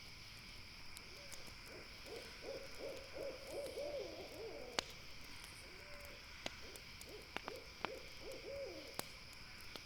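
An owl calling in two runs of quick wavering hoots, over a few sharp pops and crackles from a campfire and a steady high drone of night insects.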